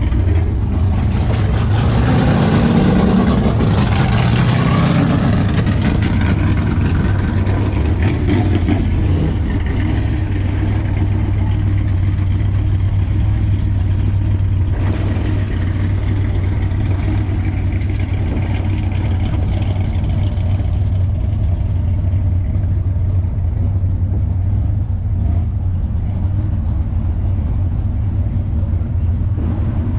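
Car engine and exhaust running on the road with a steady low drone; it picks up and grows louder over the first few seconds, as if accelerating, then settles to an even cruise.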